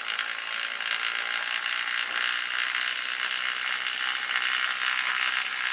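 Piston aircraft engine run up to higher power for the ignition check, a steady drone with a strong hiss.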